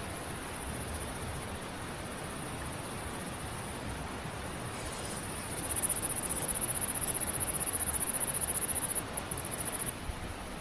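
High-pitched, rapidly pulsing insect trill that swells much louder about six seconds in and cuts off suddenly about nine seconds in, followed by a few short bursts. Beneath it runs a steady even hiss of background noise.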